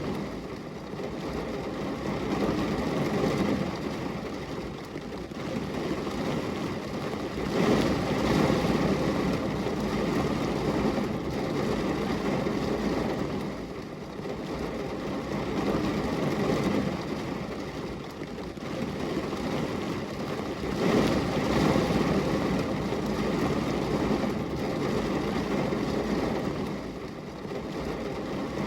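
Steady rain noise, a dense rushing hiss that is heaviest in the low-mid range and swells and eases every few seconds.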